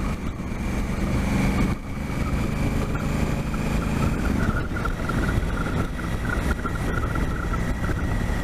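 Motorcycle engine running while riding, with wind noise over the microphone; the engine note is steady, then eases off a little past four seconds in.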